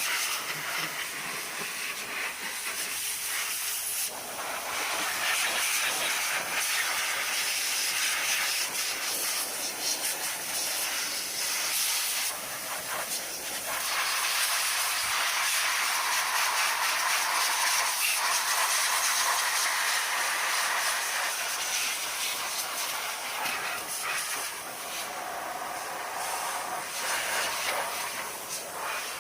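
Continuous hiss of a jet from a detailing tool working in an engine bay, its strength shifting a few times as it moves.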